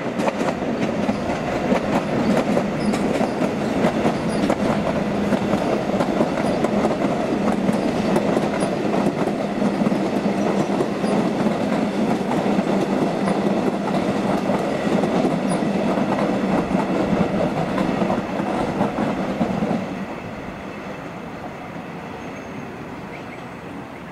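Melbourne suburban train passing close by, wheels clattering over the rails, loud and steady. It drops away sharply about twenty seconds in, leaving a fainter rumble.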